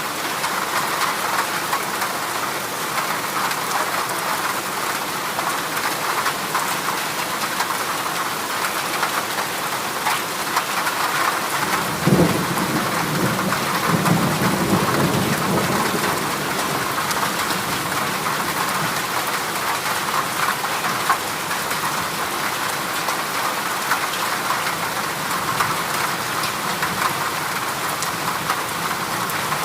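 Heavy rain falling on a corrugated zinc roof in a steady hiss. About twelve seconds in a sudden crack of thunder rolls for a few seconds before fading back under the rain.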